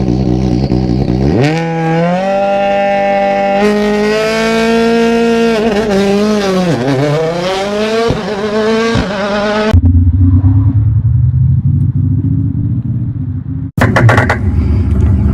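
Simulated sports-car exhaust sound played through a Tesla's add-on active sound system, revving up, holding high and dropping back. It then cuts to a deep, low rumbling idle, and cuts again to another rumbling stretch near the end.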